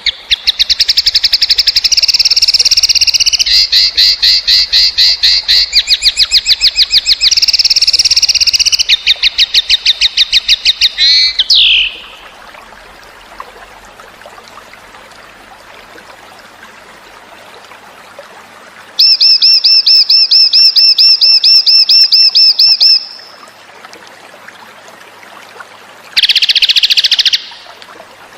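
Cucak cungkok songbird singing in loud, rapid trilling runs of quickly repeated high notes: one long run of about twelve seconds, then after a pause a run of about four seconds and a short burst near the end. Faint trickling water fills the pauses.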